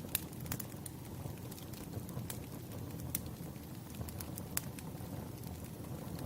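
Wood fire burning: a steady low rumble with scattered, irregular sharp crackles and pops.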